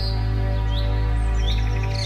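Small birds chirping: short rising chirps about every three quarters of a second, with a fast twittering trill near the end. Background music with a steady low drone and held tones plays under them.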